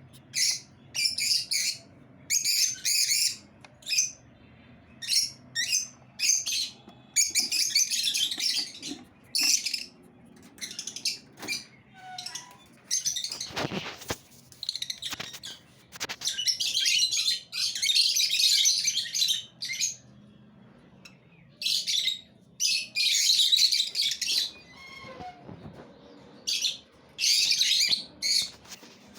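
Lovebirds chirping and chattering shrilly in repeated bursts, some lasting a couple of seconds, with short pauses between them. Two sharp knocks come about halfway through.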